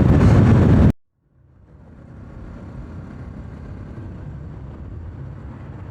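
Riding noise from a Bajaj Pulsar 200 NS motorcycle at speed: heavy wind rush over the microphone with engine and road rumble underneath. It cuts off abruptly about a second in. After a brief silence, a quieter low engine and road rumble fades in and holds steady.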